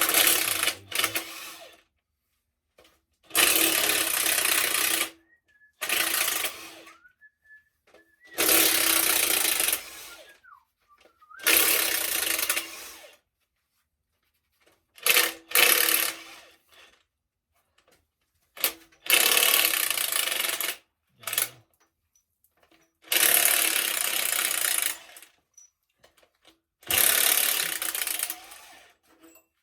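A power tool runs in repeated bursts of one to two seconds with short pauses between them, about a dozen times, each burst with a steady motor hum under a loud rattling hiss. This is typical of bolts being run out one after another during an engine teardown.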